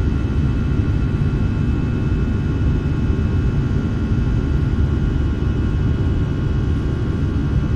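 Steady jet airliner cabin noise in flight: a deep, even rumble of engines and rushing air, with a few faint steady high tones on top.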